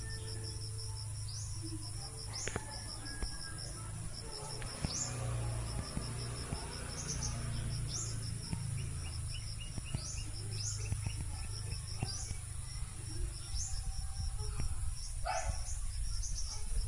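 Insects trilling steadily in a high, pulsing chorus, with small birds giving short rising chirps every second or two over a low steady hum.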